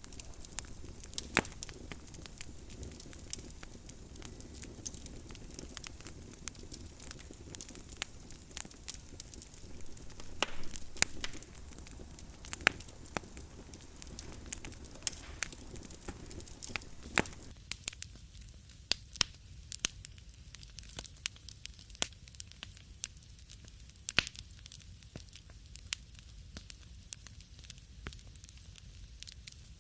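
Wood fire crackling, with frequent sharp pops and snaps over a soft hiss of burning. About two-thirds of the way through, the hiss falls away and mostly the pops remain.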